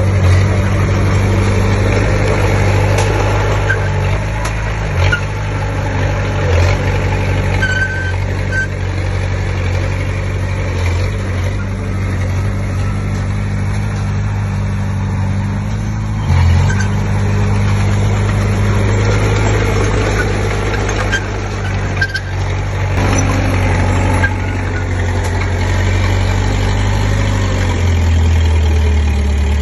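Komatsu D20P bulldozer's diesel engine running under load with a steady low drone that rises and falls as it works, and a few short metal clanks. Near the end the engine note drops lower.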